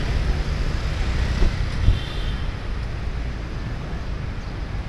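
City road traffic noise with wind rumbling on the microphone while moving along the street, with a brief louder bump about two seconds in.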